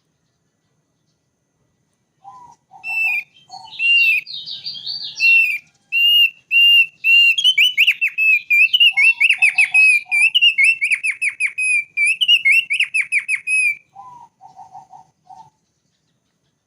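Thick-billed white-eye (opior paruh tebal) singing a long song of fast, repeated high notes that starts about three seconds in and stops near the end. Short groups of lower, separate notes come before it, in the middle and just after it.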